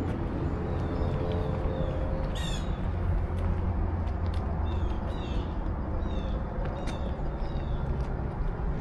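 Small birds chirping repeatedly, short falling high notes, over a steady low rumble.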